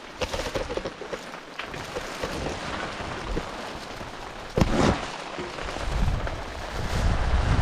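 Typhoon rain and wind, with scattered drops ticking and a single loud thump about halfway through; gusts buffet the microphone with a low rumble that builds near the end.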